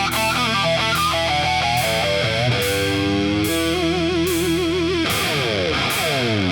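Electric blues-rock guitar solo over a band backing: a run of quick notes, then a bent note held with wide vibrato, then several notes sliding downward near the end.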